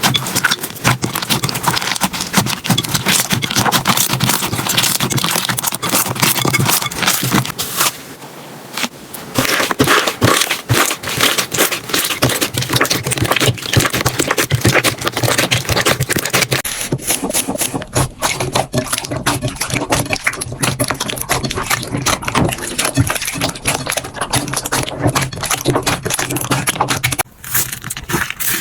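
Slime being squished, stretched and pressed by hand, giving dense crackling, clicking and popping. There is a short quieter pause about a third of the way in, and the sound changes character a little past halfway, as a different slime is handled.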